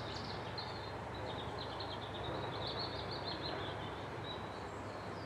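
A songbird singing a rapid twittering run of high chirps for about three and a half seconds, then fainter, over a steady background hiss and low hum.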